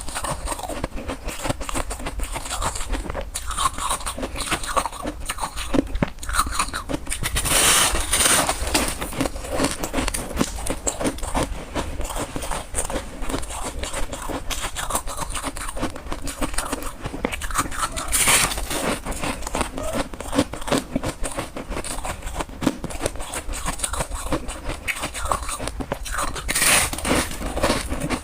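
A person biting and chewing crunchy white freezer frost: a continuous crackling crunch, with three louder crunches spread through.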